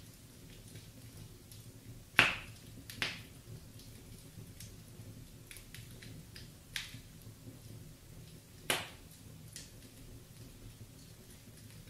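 Wood fire in a fireplace crackling: scattered sharp pops, the loudest about two seconds in and others about a second later, near seven and near nine seconds, with fainter ticks between, over a low steady hum.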